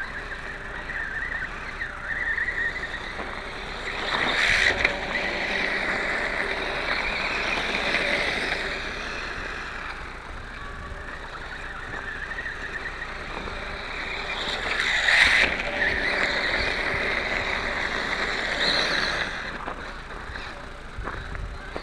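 Motor and drivetrain of an Atomik MM450 radio-controlled motorcycle whining as it is driven slowly, the pitch drifting up and down with the throttle, with two short louder bursts of throttle about four and fifteen seconds in.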